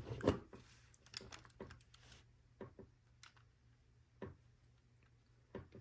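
Small plastic LEGO pieces clicking and tapping as they are handled and pressed together: several short, sharp, irregular clicks a second or so apart.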